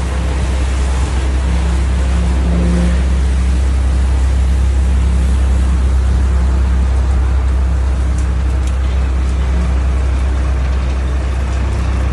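Scania P400 concrete mixer truck's diesel engine running steadily, a loud, low, even sound.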